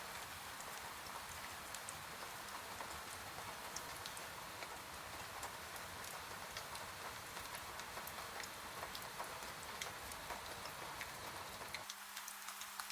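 Steady rain, an even hiss dotted with the ticks of single drops. About a second before the end, the low rumble drops out suddenly.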